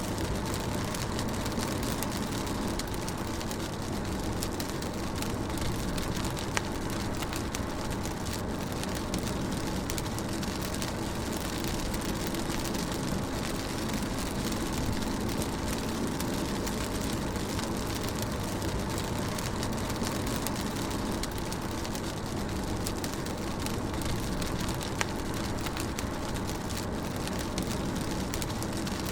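Rain on a moving car heard from inside the cabin: steady road and engine rumble under an even hiss of rain on the body and glass, with a couple of faint tapping drops.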